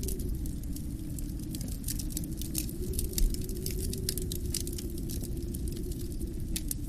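Wood fire crackling in a fireplace, with frequent small sharp pops and snaps, over a steady low rush of wind that eases and swells.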